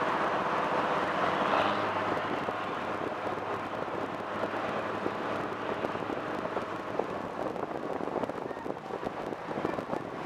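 Motor launch running on the river: a steady engine hum under the rush of water along the hull. The low hum fades about halfway through, leaving crackling splashes of water.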